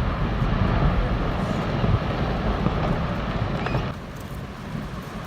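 Deep rumbling noise of glacier ice collapsing into the sea and the wave it raises, dropping in level about four seconds in.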